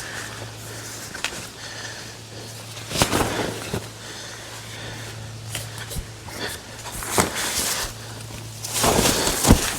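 Scattered knocks, clunks and rustling of camping gear being handled, with footsteps; the loudest knocks come a little after three seconds and again near the end. A faint steady hum runs underneath.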